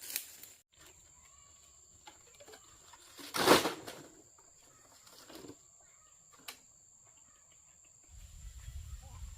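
Sparse farmyard animal and bird sounds with a steady faint high whine, broken by one short loud noise about three and a half seconds in; a low rumble starts near the end.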